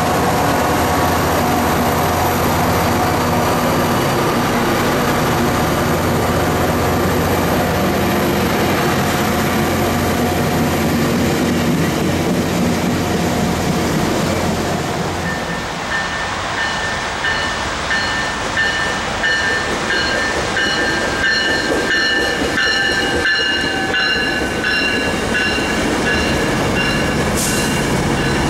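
Tri-Rail diesel locomotive and passenger train running past, with a steady engine drone. About halfway through, a second Tri-Rail train rolls in with a high, wavering metallic squeal and clicks and knocks from its wheels and cars.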